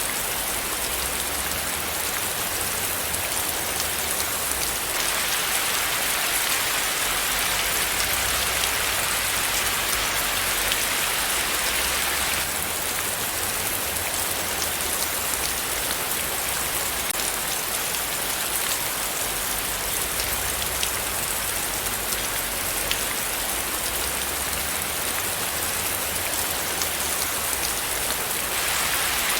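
Steady rain falling, a dense even hiss with many fine drop ticks, a little brighter for a few seconds after about five seconds in.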